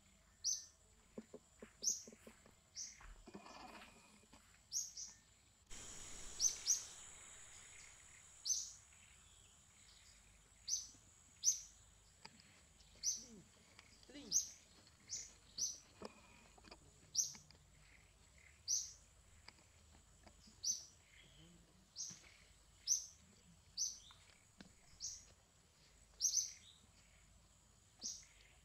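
A small bird chirping over and over: short, sharp, high chirps about once a second, some in quick pairs. A steady thin high-pitched tone runs beneath them.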